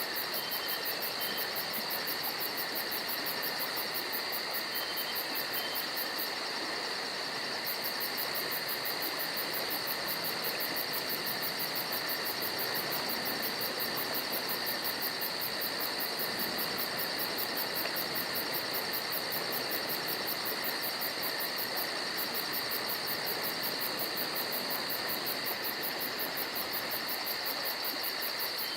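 Steady chorus of insects such as crickets, a continuous high-pitched trill with very fast even pulsing, unchanging throughout. A couple of faint short chirps sound near the start and about five seconds in.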